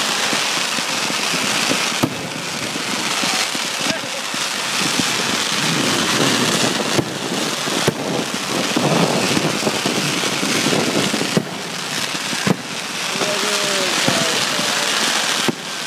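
Fireworks display: ground fountains spraying sparks with a dense, steady hissing crackle, while aerial shells go off overhead in sharp bangs about six times.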